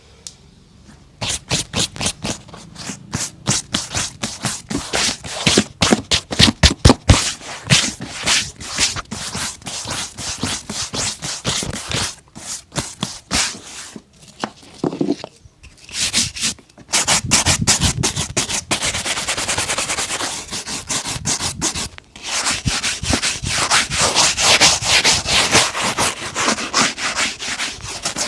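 Rapid back-and-forth rubbing strokes on a leather boot, a few strokes a second, starting about a second in. After a short pause past the middle, the strokes come faster and closer together.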